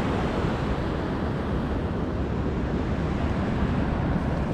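Ocean surf washing on the beach, with wind rumbling on the microphone; a steady noise without distinct events.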